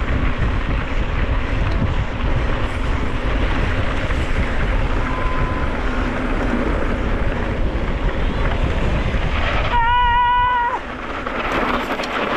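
Wind buffeting the microphone and a steady rushing rumble from a mountain bike descending fast. About ten seconds in, a short beep sounds for just under a second, and then the rushing eases as the bike slows.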